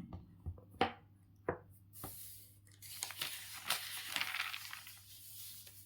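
A few faint clicks, then about three seconds of rustling, crinkling noise that fades near the end.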